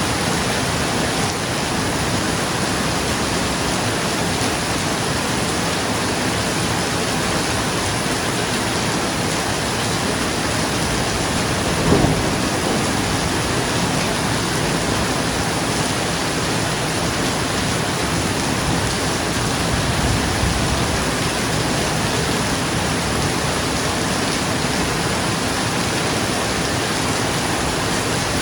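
Steady rain pattering on a roof, with one sharp clap of thunder about twelve seconds in and a softer low rumble some eight seconds later.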